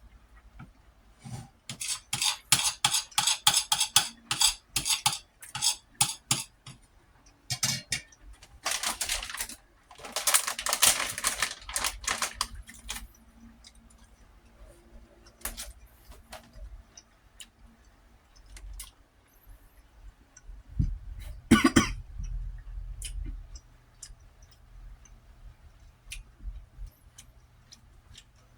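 A utensil scraping and clinking against a plate of rice, in several runs of quick scratchy strokes during the first half. About two-thirds of the way through comes a short throaty sound, like a cough or a burp.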